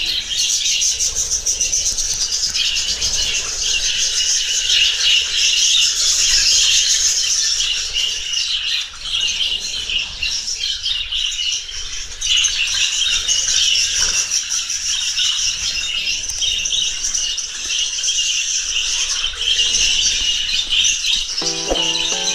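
A flock of budgerigars chattering and warbling continuously, many birds calling at once. Music comes in near the end.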